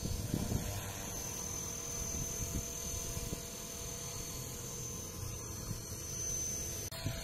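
Electric 450-size RC helicopter with a four-blade rotor running: a steady high whine over rotor noise, with a brief drop-out about seven seconds in.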